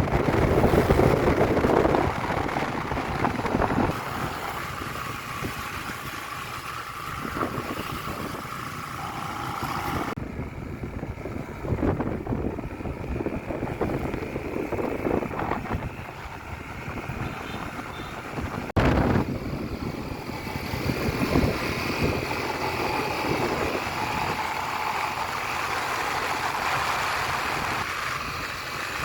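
Vehicle engine running with wind buffeting the microphone, in several short clips cut together.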